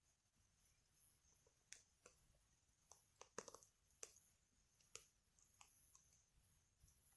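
Wood fire crackling faintly, with irregular sharp pops and snaps from the burning firewood.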